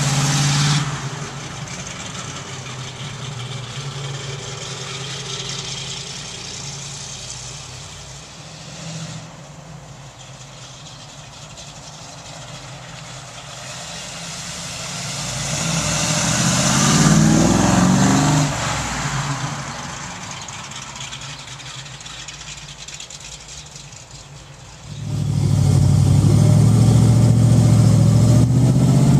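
1967 Chevrolet Camaro SS convertible's V8 engine: it fades as the car drives off, swells again with rising and falling pitch as the car comes back past about halfway through, then fades once more. For the last few seconds it is loud and steady, heard from inside the open car as it drives.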